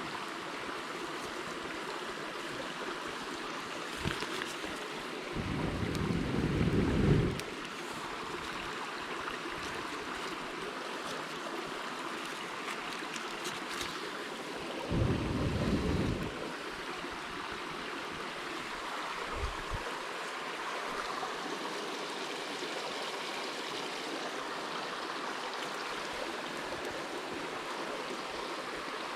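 A mountain stream rushing steadily. Two brief low rumbles come about six and fifteen seconds in, and there are a couple of single knocks.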